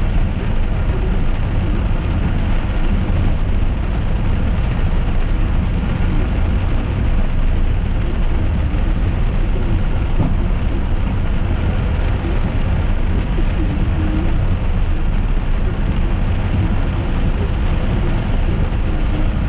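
Steady noise of a car driving in rain, heard inside the cabin: a constant low rumble with rain and wet-road hiss over it.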